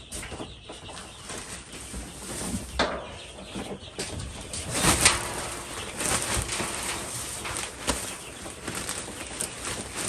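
Chickens clucking and flapping their wings, mixed with rustling and a few sharp knocks from handling in the pen; the loudest burst comes about five seconds in.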